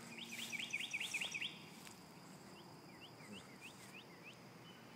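A songbird singing: a quick run of high chirps, about six a second, then slower, spaced single chirps.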